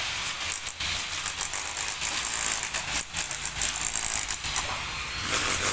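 Clay roof tiles clattering and knocking against one another in a rapid, irregular rattle.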